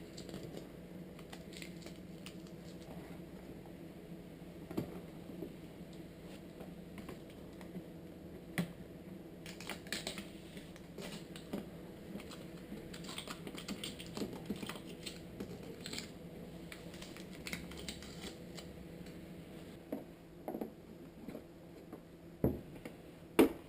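Scattered small clicks and scrapes of hands working the rubber seals off a plastic headlight housing, over a faint steady hum, with a few sharper clicks near the end.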